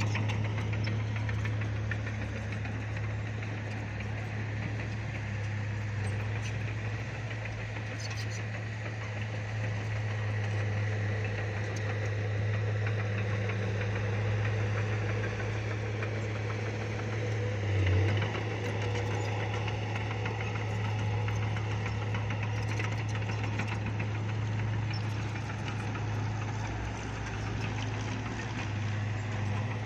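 Bulldozer's diesel engine running steadily, with a brief louder surge about eighteen seconds in.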